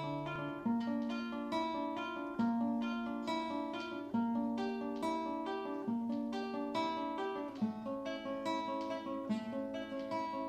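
Acoustic guitar playing an arpeggiated instrumental intro: single picked notes run over a bass note that changes about every second and a half.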